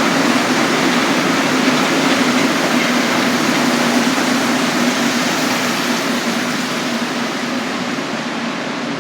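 Montreal Metro rubber-tyred train running through the station: a dense, steady rushing noise with a low hum underneath, slowly fading from about halfway through as it moves away.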